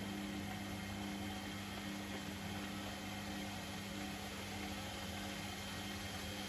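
Privileg Sensation 952 S top-loading washing machine running with a steady, even hum, with no change in speed or rhythm.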